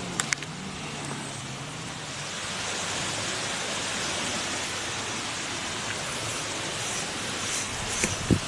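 Steady wind, an even rushing hiss that grows a little louder after a couple of seconds, with a few short clicks near the start and again near the end.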